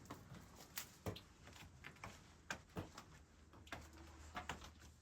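Faint, irregular clicks and taps, about two or three a second, with a low hum coming in about halfway through.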